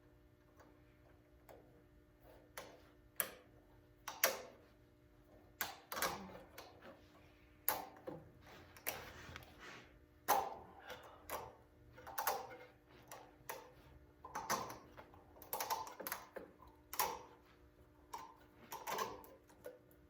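Irregular metallic clinks and clanks of head bolts, nuts and spacers being handled and started by hand while a cylinder head is refitted on a Kohler K-series engine, some strikes briefly ringing. A faint steady hum runs underneath.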